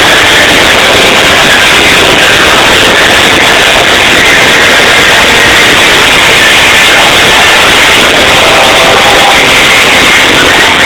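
Loud live rock concert sound, with the band and crowd merged into a dense distorted wash of noise. The phone microphone is overloaded, which is why it sounds so bad.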